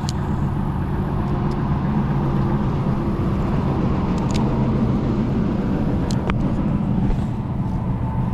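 A steady low motor hum, with a few light clicks over it.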